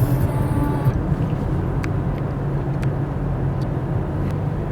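Motor vehicle engine running steadily with road noise: a constant low hum, with a few faint ticks.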